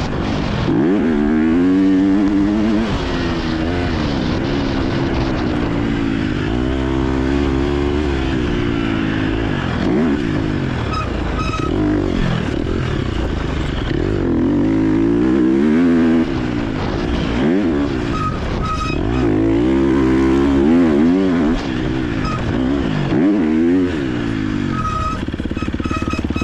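KTM 250 SX-F four-stroke single-cylinder motocross engine revving up and falling back over and over as the throttle is opened and closed around the track. Near the end it settles to a steadier, lower note.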